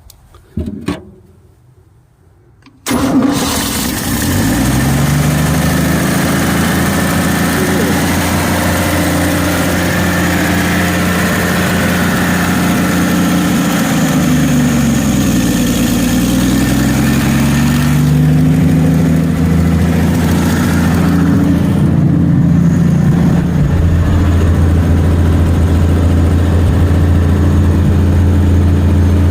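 1963 Chevy C10 pickup's engine starting about three seconds in, catching suddenly, then running, its speed rising and falling a few times before settling into a steady run.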